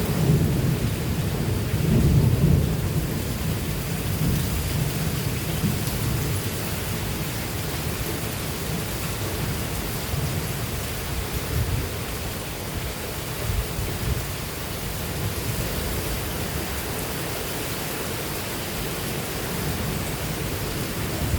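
Heavy rain pouring steadily during a thunderstorm, with a low rumble of thunder that is loudest about two seconds in.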